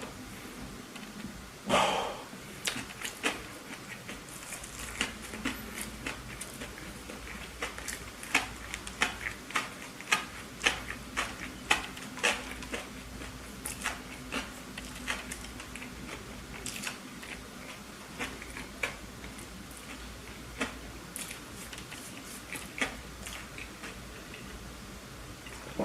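Close-miked chewing of a burger: irregular wet mouth clicks and smacks, about one or two a second, with a louder one about two seconds in.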